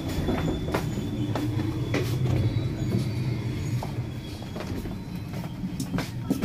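Passenger train running on its rails, heard from inside a sleeper carriage: a steady low rumble with scattered clicks and knocks and a faint high whine. The rumble eases slightly after about four seconds.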